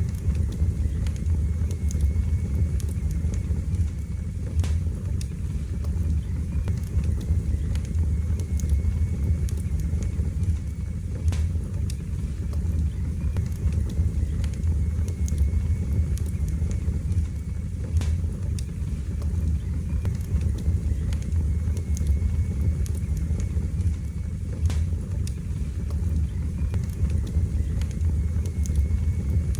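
Wood fire burning in a fireplace: a steady low roar from the flames with scattered sharp crackles and pops.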